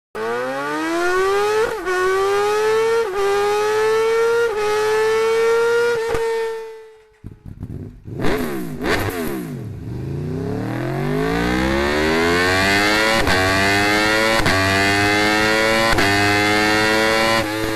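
Superbike engine through an Akrapovic exhaust accelerating hard through the gears: the note climbs and drops back at each upshift, roughly every second and a half. That run fades out, and after a brief pause a second run starts with a falling note, then climbs again through several more upshifts.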